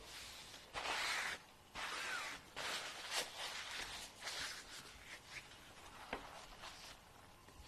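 Fingernail being ground, in a series of short, irregular scratchy strokes, each under a second, with a few light clicks. The strokes grow fainter in the second half.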